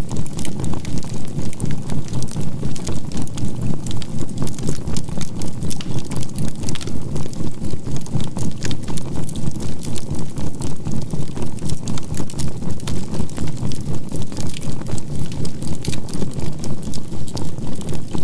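Crackling campfire of burning charcoal, with fine pops throughout, under a steady low hum that pulses evenly about four times a second: a binaural-beat track with a 528 Hz tone.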